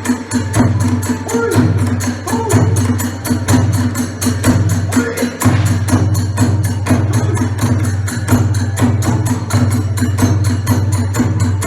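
Kagura hayashi music: drum and hand cymbals beating a fast, steady rhythm under a wavering flute line.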